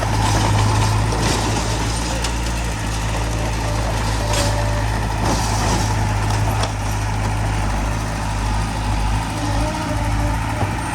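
Heavy diesel construction machinery running steadily with a deep engine hum, with a few sharp clanks partway through.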